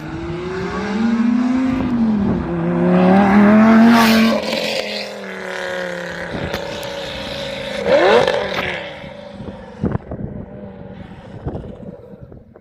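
Lamborghini sports car engine revving: the revs climb to a loud peak about four seconds in, settle to a steadier note, then swing sharply once more around eight seconds before the sound fades.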